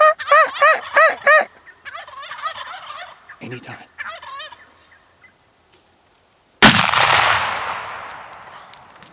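Merriam's wild turkeys gobbling: a loud run of rapid gobbles, then fainter gobbling from other birds. About six and a half seconds in comes a single shotgun blast, the loudest sound, echoing and dying away over about two seconds.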